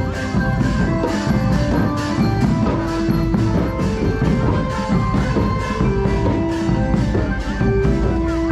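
Thai brass band (trae wong) playing, with drums keeping a steady beat under held horn notes.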